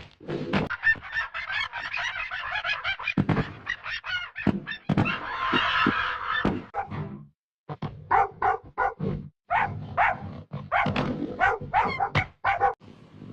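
Cartoon soundtrack: music with a quick run of knocks and thumps and animal cries, with two short breaks partway through.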